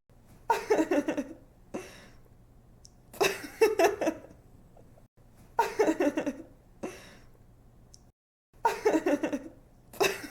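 A woman laughing in short, quick giggles, four bursts of rapid "ha-ha" about two and a half seconds apart, with a short breath after some of them.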